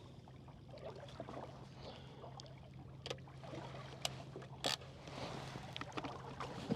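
Boat motor running steadily at trolling speed, a low even hum, with a few sharp clicks or taps about three to five seconds in.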